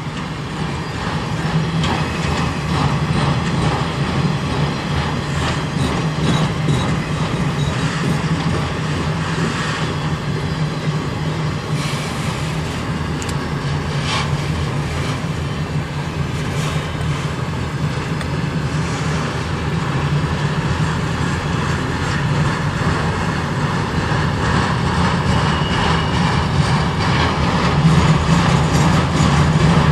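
Freight train cars rolling past with a steady noise of wheels on rail, growing a little louder near the end.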